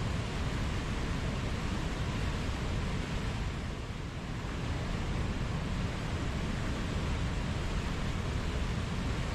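Steady rush of running water, with a brief slight dip in level about four seconds in.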